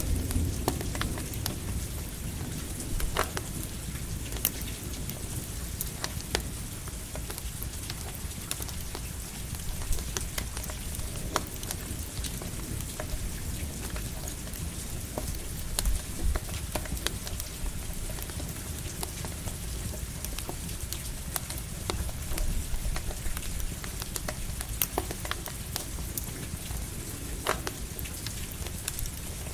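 Campfire crackling in steady light rain: an even hiss of rain with scattered sharp pops and crackles.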